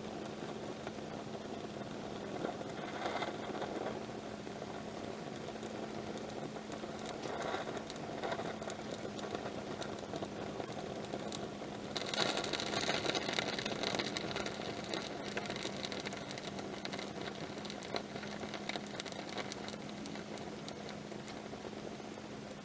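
Wood campfire burning, with a steady hiss and frequent small crackles and pops; it grows louder and busier for a few seconds about halfway through. A faint steady hum runs underneath.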